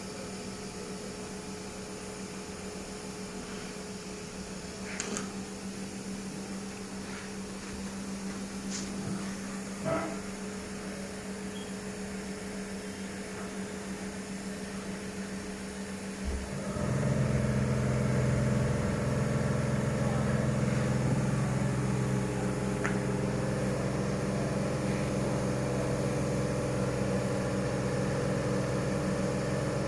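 A steady hum with a few light clicks, then a little past halfway a Toyota 1GR 4.0-litre V6 engine starts and settles into a steady idle.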